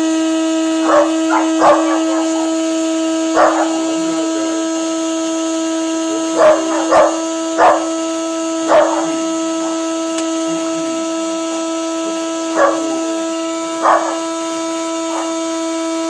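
The blade grinder motor of a Cuisinart grind-and-brew coffee maker running with a steady whine while grinding beans. A dog barks in short, sharp barks about ten times over it.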